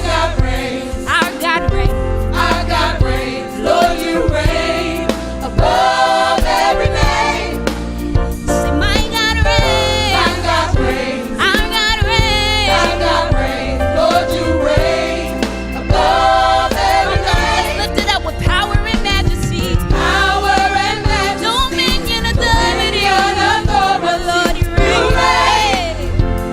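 Gospel choir singing with a band, with steady bass and melismatic vocal runs throughout.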